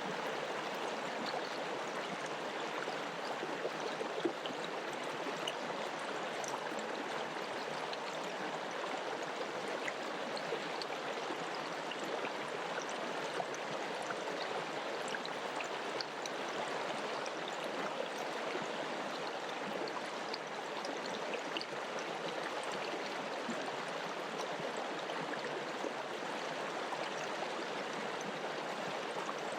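Mountain river or stream rushing steadily over rocks, a constant even water noise with small splashes.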